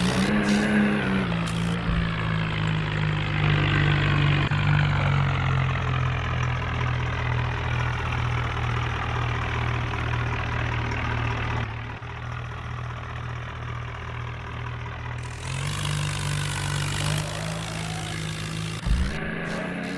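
Tractor diesel engine running steadily, its pitch easing down a little about a second in and picking up again about fifteen seconds in.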